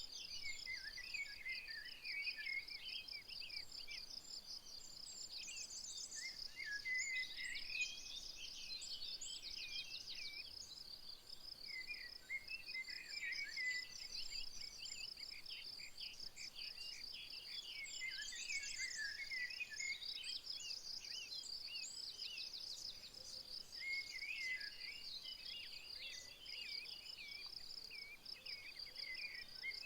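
A continuous high-pitched insect trill, finely pulsed and steady, with songbirds singing in bouts over it, each bout a few seconds of quick chirps and trills.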